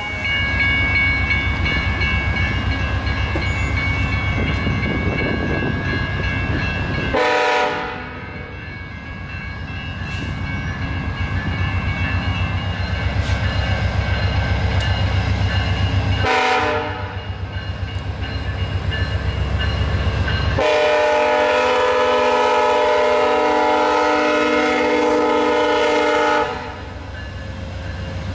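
VIA Rail GE P42DC diesel locomotive passing with its passenger train: steady engine rumble and rail noise, brief horn notes about 7 and 16 seconds in, then a long horn blast of about six seconds starting some 21 seconds in.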